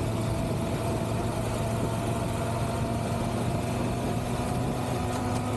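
Triumph Tiger 1200 GT Pro's three-cylinder engine running at a steady speed under way, with heavy wind rush over the rider's microphone.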